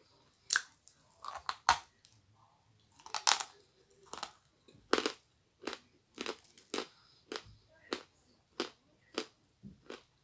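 Close-up crunching as a person bites and chews a dry, hard white lump of edible mineral: a few loud sharp bites in the first few seconds, then steady chewing crunches a little under two a second.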